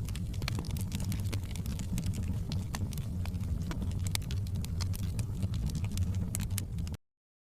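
Wood fire burning in a fireplace, with a steady low rumble of the flames and many irregular sharp crackles and pops. The sound cuts out completely for about half a second near the end.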